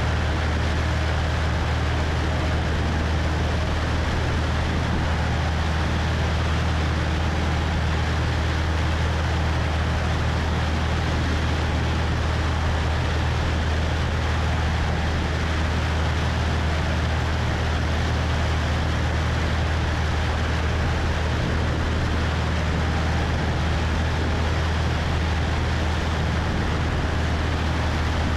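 Cessna 172's piston engine and propeller droning steadily in level flight, with a constant rush of wind over the wing-mounted microphone.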